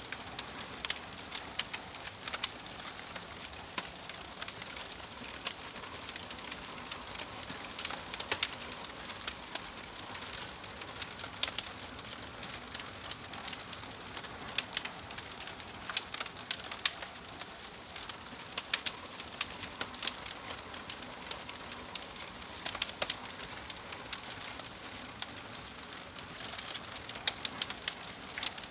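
Wood fire crackling: a steady hiss with irregular sharp pops and snaps scattered through it.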